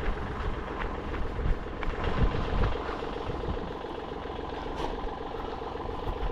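Tractor engine running steadily, with a low rumble and a few brief knocks.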